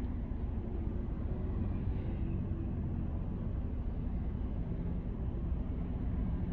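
Steady low rumble of a car driving on city streets: road and engine noise.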